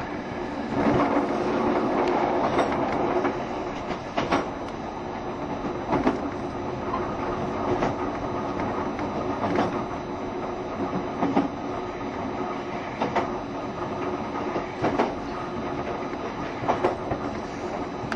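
JR Shikoku 7200 series electric train running at speed: a steady rumble of wheels on rail, with a sharp rail-joint clack about every 1.8 seconds. The rumble is louder for a moment about a second in.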